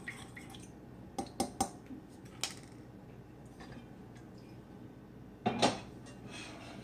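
Kitchen clatter of a pot and utensils: a few light clinks and knocks, then a louder clatter about five and a half seconds in.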